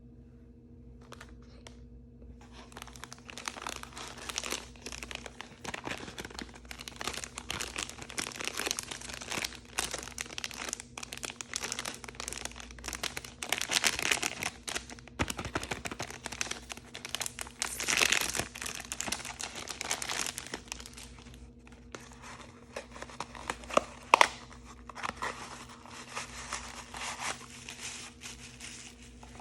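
Plastic blind bag wrappers crinkling and being torn open by hand, a dense crackle that starts a couple of seconds in, with two sharp clicks about 24 seconds in.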